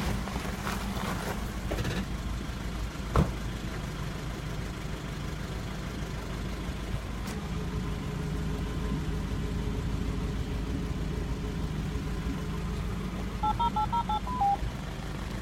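Off-road vehicle engine running steadily, with a single sharp knock about three seconds in. Near the end comes a quick run of short electronic beeps.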